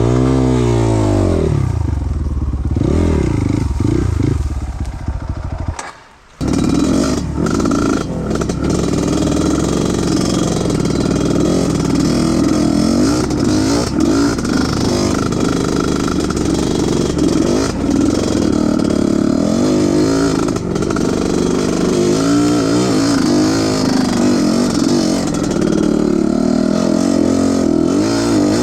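Off-road trail motorcycle engine revving up and down, with a brief drop-out about six seconds in, then running steadily with the revs rising and falling.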